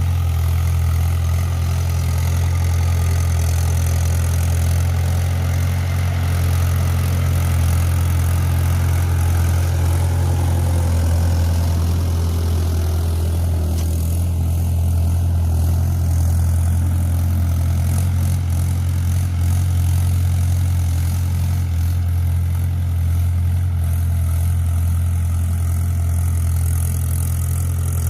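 Mahindra 475 DI tractor's four-cylinder diesel engine running at a steady speed, a constant low drone with no revving changes.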